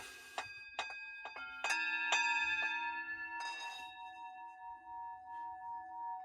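Several singing bowls struck one after another, about half a dozen strikes in the first three seconds, their ringing tones piling up into a chord. From about four seconds in, the remaining tones hang on with a slow, even wavering pulse.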